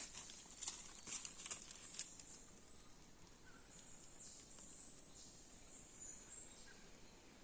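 Quiet rain-forest ambience: a few sharp crackles in the first two seconds, then faint, thin high chirps over a soft steady hiss.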